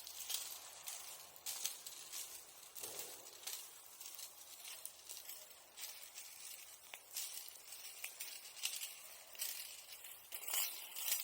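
Embers of a wood and bamboo bonfire crackling and hissing, with frequent small sharp clicks.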